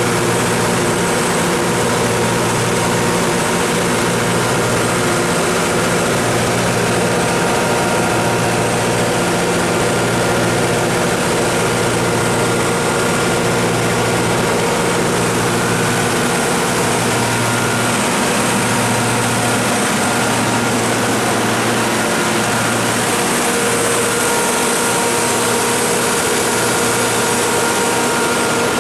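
Caterpillar 3208 V8 diesel engine of a 150 kW standby generator set running at a steady speed. Its low hum swells and fades slowly, about every two seconds.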